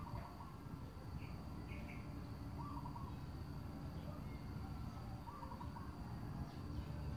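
A bird calls a short phrase of notes three times, about every two and a half seconds, with a few higher chirps from another bird about a second in, over a steady low rumble.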